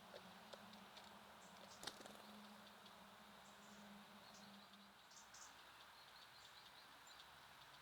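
Faint, scattered short chirps of small songbirds at a feeder, with one sharper click about two seconds in and a faint low hum that fades about five seconds in.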